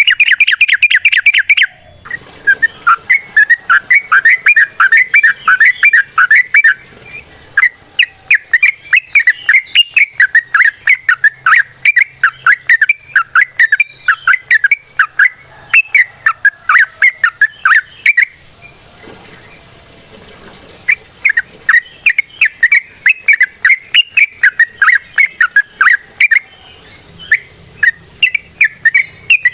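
Yellow-vented bulbul (trucukan) singing a long, fast run of notes, several a second, breaking off once about two-thirds of the way through before resuming.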